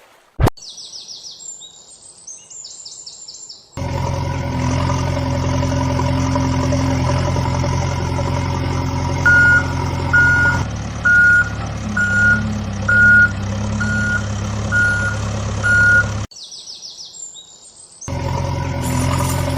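Heavy vehicle engine running steadily, with a reversing alarm beeping about once a second for several seconds in the middle. Before the engine starts and during a short break near the end, high chirping sounds.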